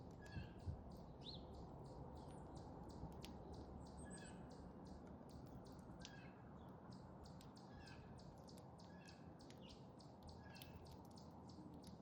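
Faint chirps of small backyard songbirds: short calls repeating about every second or so, with many faint high ticks, over a low steady background hiss.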